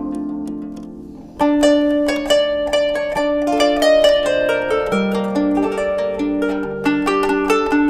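Kanun, the Turkish plucked zither, playing solo. Held notes ring and fade, then about a second and a half in a fast, loud run of plucked notes starts up and carries the melody on.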